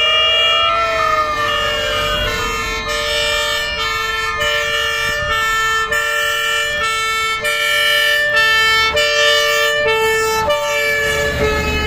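Several fire engine sirens sounding at once as a convoy of fire trucks drives by: two-tone sirens alternating between high and low notes, with a wailing siren rising and falling in the first couple of seconds, over the rumble of truck engines.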